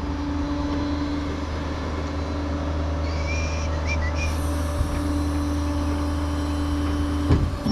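Vehicle engine and road noise while driving, a steady low drone with a steady hum that fades and returns; a few brief high chirps about three to four seconds in.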